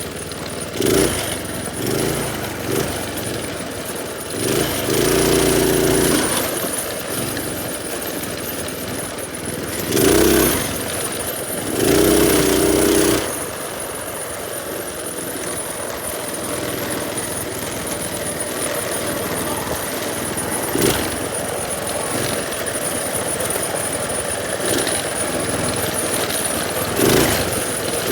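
Minibike's small engine running while being ridden, with a rattling drone that surges louder several times as the throttle is opened.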